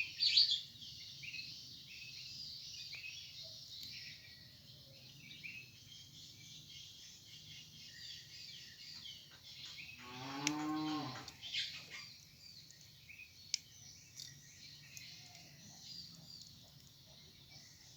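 Faint, scattered bird chirps throughout, with a cow mooing once, about ten seconds in, for a second and a half.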